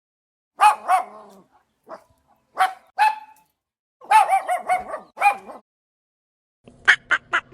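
A dog barking: two pairs of barks, then a quick run of barks. Near the end a different sound begins, a rapid series of short calls over a steady low hum.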